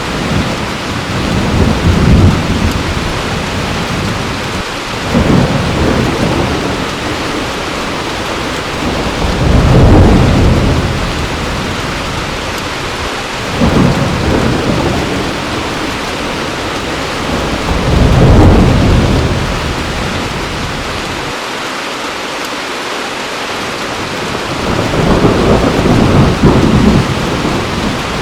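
Heavy rain falling steadily with thunder rumbling again and again, a low roll swelling every few seconds, the loudest about ten and eighteen seconds in.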